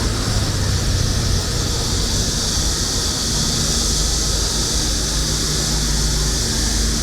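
City street ambience: a steady low rumble of traffic under a constant high-pitched cicada chorus that holds without a break.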